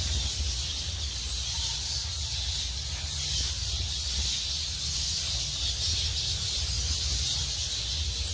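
A vast colony of bats in flight: a steady hissing rush of countless wings with a low rumble underneath, unchanging throughout.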